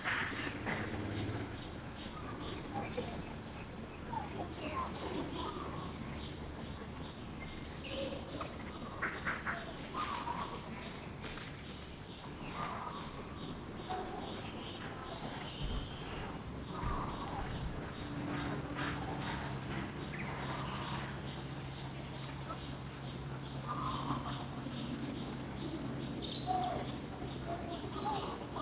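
Outdoor ambience: a steady high insect drone, with short scattered calls and chirps from animals.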